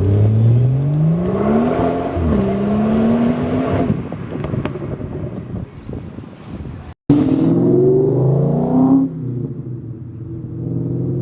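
Car engine accelerating hard, its pitch climbing, dropping at a gear change about two seconds in and climbing again. After an abrupt cut about seven seconds in, an engine revs up and falls back, then settles to a steadier lower note.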